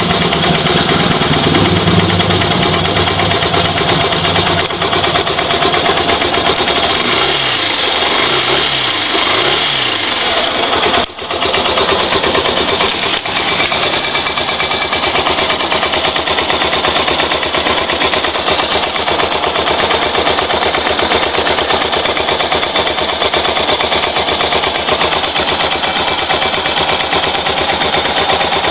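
Yamaha SZ-R motorcycle's single-cylinder four-stroke engine idling steadily, with a brief drop in level about eleven seconds in.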